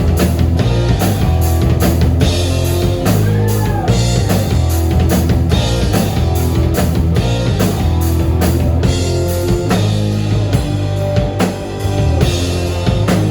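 Live rock band playing an instrumental passage: drum kit with a steady beat, electric guitar and bass.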